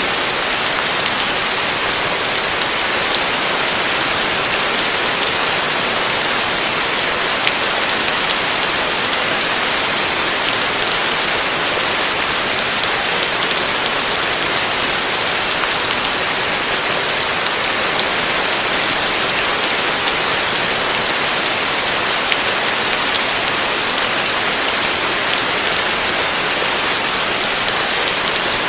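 Heavy rain falling on a roof: a steady, dense hiss with the odd single drop tick standing out.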